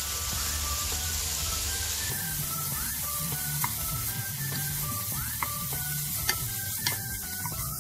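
Diced smoked beef sizzling as it fries in oil in a pot, stirred with a wooden spoon that knocks against the pot a few times.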